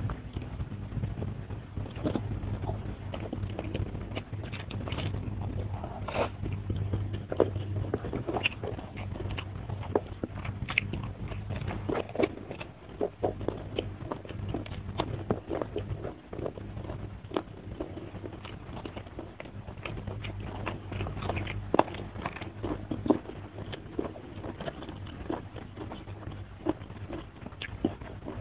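Close-miked mouth sounds of a person eating by hand: wet chewing, irregular crunches and clicks as rice, fish and raw green vegetables are bitten and chewed, over a low steady hum.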